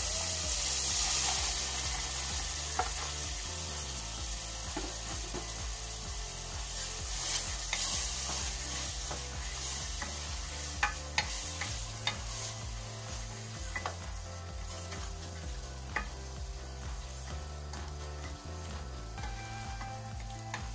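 Hot ghee-fried masala sizzling in a metal pot as soaked black-eyed beans are poured in, loudest in the first couple of seconds. The beans are then stirred with a wooden spoon, with scraping and a few sharp knocks against the pot.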